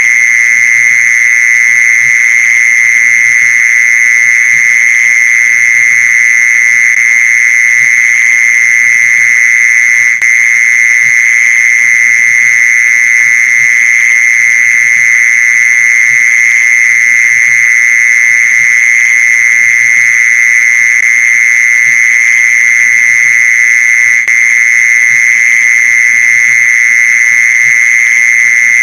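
Mole cricket calling song: a loud, continuous trill held on one high pitch, with faint overtones above it. It dips for an instant twice but never stops.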